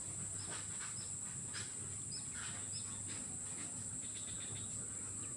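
Swamp ambience: a steady high-pitched insect drone, with short bird calls repeated every half second or so.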